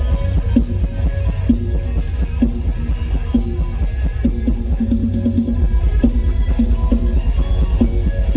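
Mor lam band music with no singing: drum kit and electric bass keeping a steady beat under held instrumental tones.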